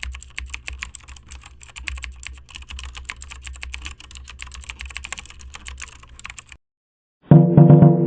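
Rapid computer-keyboard typing, a dense run of quick clicks, which stops about six and a half seconds in. After a brief silence, loud keyboard-like music with sustained notes starts near the end.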